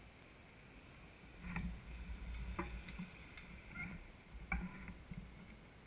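Mountain bike jolting over a rough trail: a low rumble with a few sharp knocks and rattles, the loudest about four and a half seconds in.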